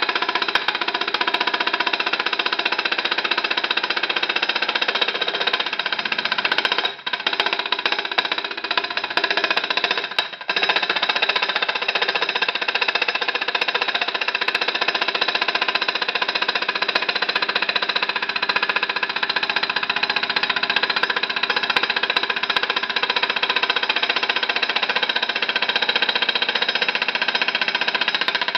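Small homemade hot-air engine, a steel-wool-filled metal cup under a silicone bellows, running with a steady, rapid buzzing rattle as it vibrates on an aluminum plate. The buzz briefly drops out about seven seconds in and again about ten seconds in.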